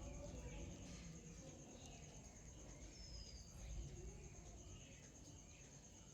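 Faint outdoor ambience: a steady, high insect trill, with a short falling bird chirp about three seconds in.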